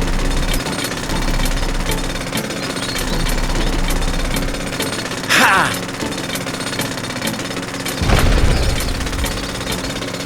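Steady, rapid mechanical rattling with evenly spaced clicks, like a small power tool or machine running. A brief higher sound cuts in about five seconds in, and the low end swells near the end.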